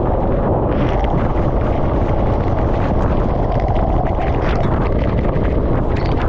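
Go-kart running at speed, its engine rumble buried under heavy, steady wind buffeting on the microphone, with scattered crackling through it.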